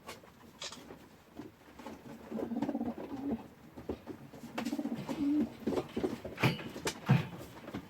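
Domestic pigeons cooing in low, wavering calls, with a couple of sharp clicks near the end.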